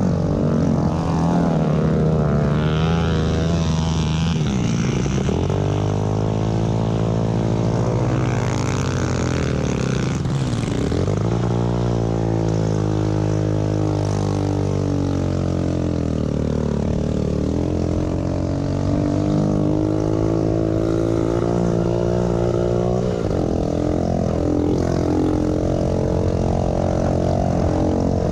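Pit bike engines running at race pace, their revs rising and falling over and over, with a sharp drop and pick-up about ten seconds in.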